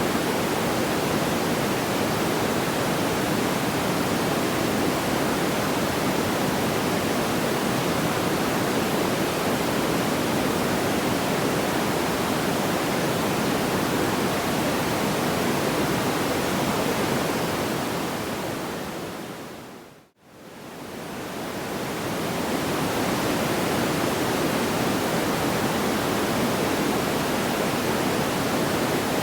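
Steady, even rushing noise, heaviest in the low-middle range and without separate crackles. About twenty seconds in it fades quickly to silence and straight back up, the seam of a looped track.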